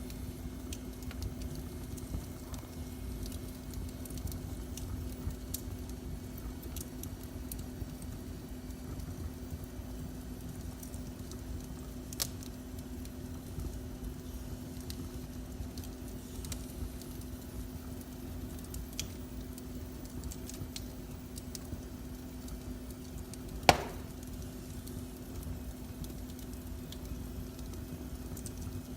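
Wood fire burning in a fireplace: a steady low rumble and hum with scattered small crackles, a sharper pop about 12 seconds in and one loud pop about 24 seconds in.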